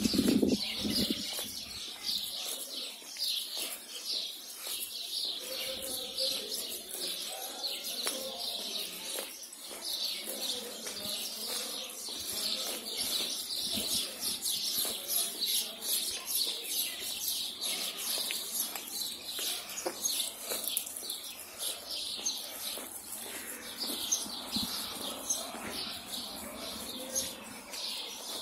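Small birds chirping steadily in the trees, a dense run of short, high, repeated chirps.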